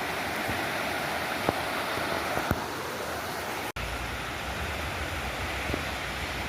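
Steady rushing of flowing water, like a stream or river, with a couple of faint clicks. About halfway through the sound cuts out for an instant and comes back with a stronger low rumble underneath.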